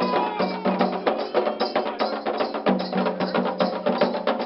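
Candomblé ritual drumming: atabaque hand drums and sharp, wood-block-like struck percussion keeping a fast, dense, steady rhythm.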